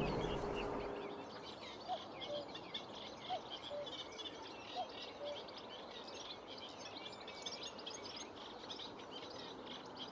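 A distant common cuckoo calls three times in the first half, each a faint falling two-note 'cuck-oo', over the steady, busy chatter of small songbirds.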